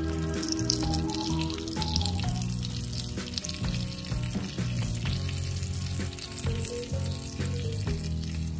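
Pieces of fish frying in hot oil in a miniature pan, with a steady sizzle and many small crackles. Background music plays alongside.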